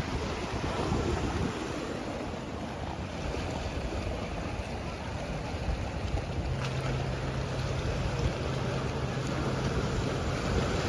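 Sea waves washing on the shore, with wind buffeting the microphone. A low steady hum comes in about six and a half seconds in and stops near the end.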